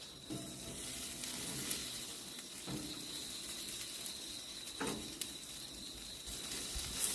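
Whole pork belly sizzling over a barbecue grill fire, with fine crackles from the dripping fat. A couple of soft knocks come about three and five seconds in.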